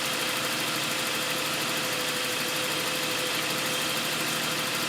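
Toyota 1G-FE straight-six idling steadily while its ignition timing is being set, the distributor turned toward about 10 degrees on the timing light.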